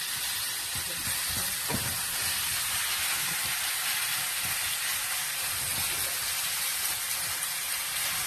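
Kimchi frying in rendered pork belly fat in a pan, a steady sizzle.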